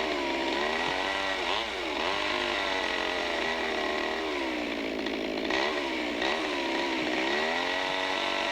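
Chainsaw cutting a corner notch in a log: the engine's pitch sags as the chain bites into the wood and climbs back as it revs up, over and over.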